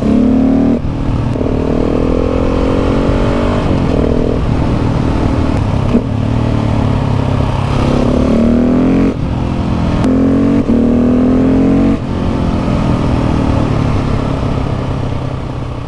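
KTM 690 SMC R's single-cylinder engine through a Leo Vince exhaust, pulling up through the gears: the revs climb again and again, each climb cut by a short break and drop in pitch at the shift. Near the end the throttle eases and the engine sound fades.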